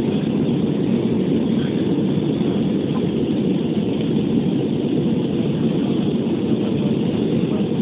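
Airbus A320 passenger cabin in flight: the steady, even noise of the jet engines and airflow, heaviest in the low range and without change.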